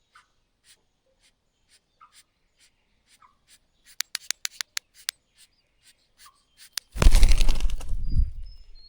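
A mother bird making a clattering sound: faint clicks about every half second, then a quick run of six or seven sharp, loud clicks. About two seconds later comes a loud rough rustling burst that fades over nearly two seconds. The clattering is taken as an alarm that danger may be nearby.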